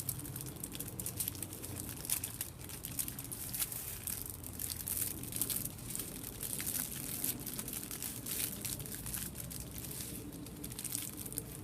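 Aluminium foil crinkling in a steady run of small crackles as a foil packet's sides are folded and rolled in by hand.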